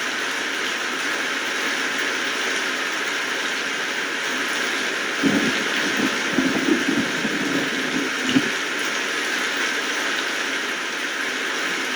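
Steady rain falling, an even hiss of drops. From about five seconds in to about eight and a half seconds, a brief cluster of heavier, lower knocks sounds over it.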